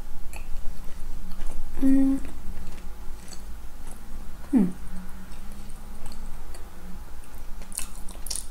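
A person chewing a soft Krispy Kreme doughnut with the mouth closed, close to the microphone, with small wet mouth clicks and lip smacks that sharpen near the end. A short hummed "mm" comes about two seconds in, and a longer "mmm" that falls in pitch and then holds comes about halfway.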